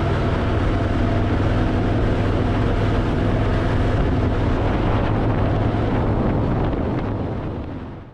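Harley-Davidson Fat Boy's V-twin engine running steadily while riding. It fades out near the end.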